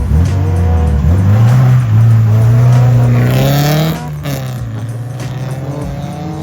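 A drift car's engine at high revs, its pitch climbing over the first few seconds and then dropping sharply about four seconds in as the throttle comes off. There is a burst of tyre noise just before the drop.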